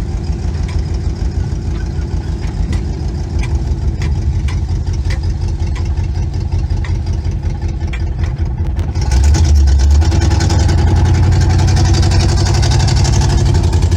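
1962 Chevy Impala's 283 small-block V8 running through old Cherry Bomb mufflers, heard from inside the car. About nine seconds in it gets louder, its low drone stronger, with a hiss added over it.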